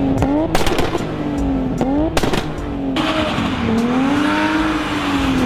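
A car engine revving up and down, its pitch rising and falling, with several sharp cracks; from about halfway a hissing tyre noise joins in.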